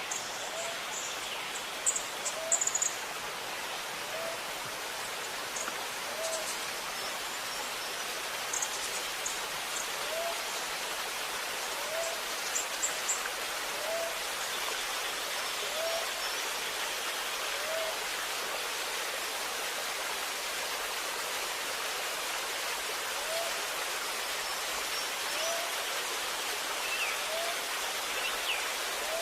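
Steady rush of running water with birds calling over it: a short, low rising note repeating about every one and a half to two seconds, and brief high chirps clustered in the first half.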